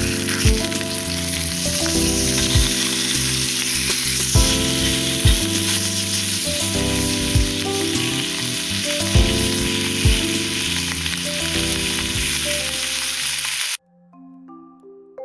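Processed meat sizzling as it fries in a pan, under background music with a regular thumping beat. The sizzle cuts off suddenly near the end, leaving soft mallet-percussion music.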